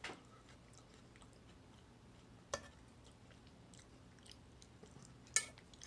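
Quiet chewing of a mouthful of canned chow mein, with faint mouth clicks and a few sharper clicks, the loudest about two and a half and five and a half seconds in.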